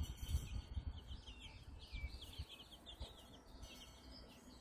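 White silkie chicks peeping: a steady run of short, high peeps, several a second, over a low rumble near the start.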